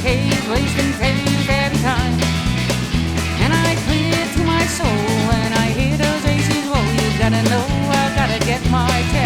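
Country-rock band playing an instrumental break: a lead line sliding up and down in pitch over a stepping bass line and a steady drum beat.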